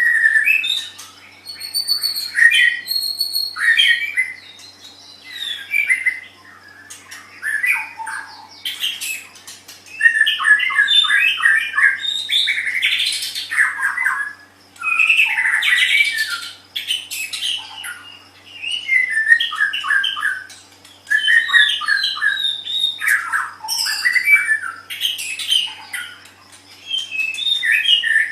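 White-rumped shama singing: rapid, varied whistled phrases and trills with some harsh notes, delivered in bursts of several seconds with short pauses between them.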